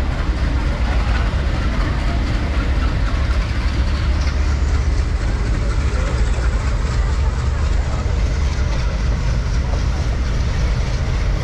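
Passenger train in motion: a steady, loud rumble of the coach and its wheels running on the track.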